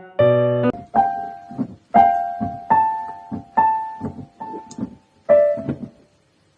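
Background piano music: a melody of separately struck, ringing notes over lower accompanying notes, stopping about six seconds in.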